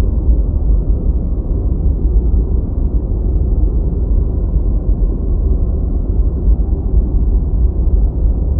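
Deep white noise: a steady, muffled rush, strongest in the deep bass and with no hiss in the highs.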